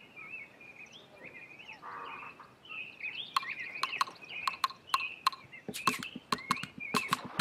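Birds chirping and warbling, joined about three seconds in by a run of sharp clicks that come faster toward the end.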